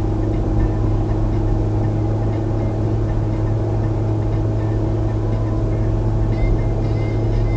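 Peugeot 106 Rallye's 1.3-litre four-cylinder engine and road noise, heard inside the cabin at steady highway speed: an even low drone that does not change in pitch. A few faint high ticks come in near the end.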